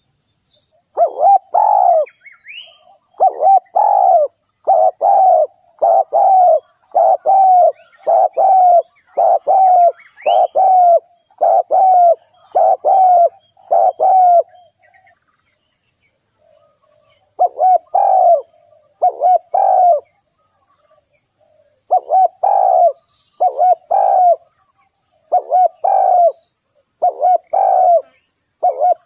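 Spotted dove cooing: a steady series of short, low coos about one a second, breaking off for about three seconds midway and then starting again. It is the call of a decoy dove, used to lure wild doves.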